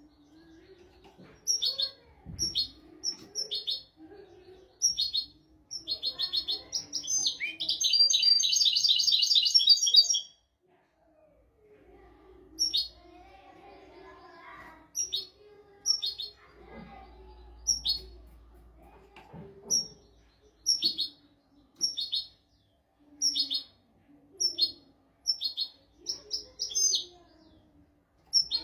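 European goldfinch singing: short, sharp chirping notes about once a second, breaking into a dense, rapid twittering trill about a third of the way in, then back to spaced single notes.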